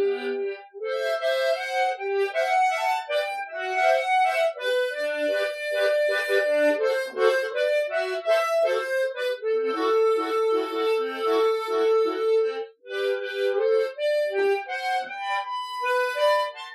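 Solo harmonica playing a slow ballad melody in broken chords and broken bass: melody notes over quickly repeated chord and bass pulses, unaccompanied.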